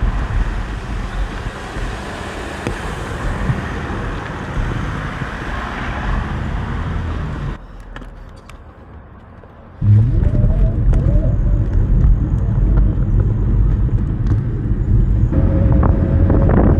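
Rushing wind and road noise on the microphone of a camera riding along on an e-bike. It drops away abruptly for about two seconds just past the middle, then comes back as loud as before.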